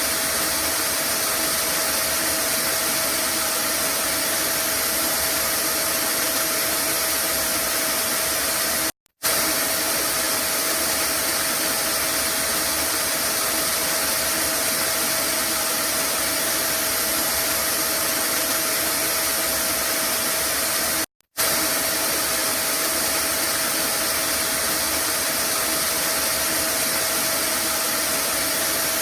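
Vacuum cleaner running steadily: an even whooshing roar with a constant whine in it, cutting out to silence for a split second twice, about 9 and 21 seconds in.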